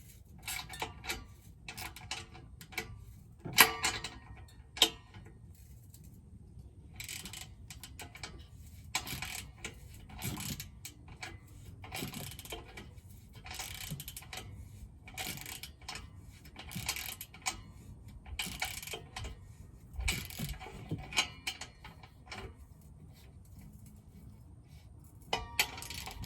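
Ratchet wrench clicking in repeated short runs of strokes, tightening an exhaust tip onto the tailpipe, with a couple of louder metal knocks a few seconds in.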